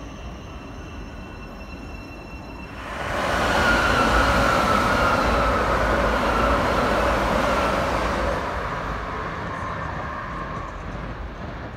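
Electric multiple-unit passenger train running past the platform: a loud rush of wheel and rail noise with a whine that falls slowly in pitch as it goes by, then fading as the train moves away.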